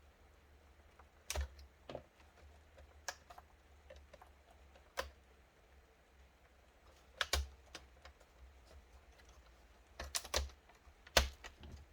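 Scattered, irregular sharp clicks and taps of a laptop's hard plastic parts being handled and pried while the screen is worked loose, with a cluster of clicks in the second half.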